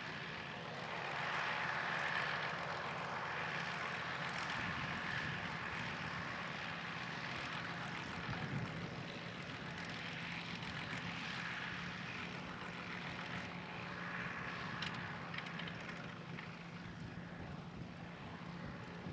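Engine-driven farm machinery running steadily with an even hum.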